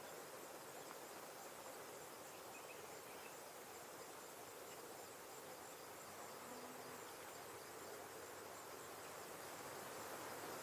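Faint, steady insect chirring with an even high pulsing trill over a soft outdoor hiss.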